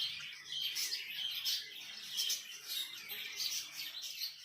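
Pet budgies chirping and chattering continuously, many quick high chirps overlapping, over a faint steady low hum.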